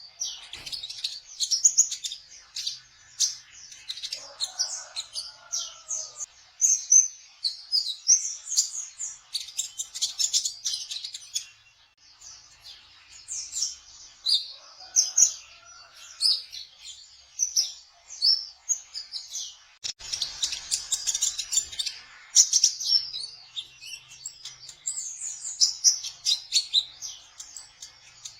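Kolibri ninja sunbird singing: rapid, high-pitched chirps and trills in bursts with brief pauses, with a few lower sliding notes mixed in.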